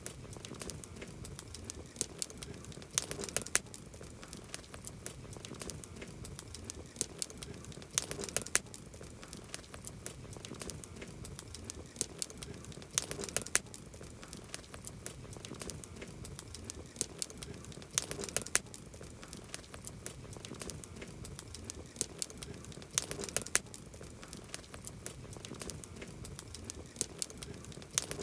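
Wood campfire crackling steadily with many sharp pops and snaps, a cluster of louder pops coming back about every five seconds.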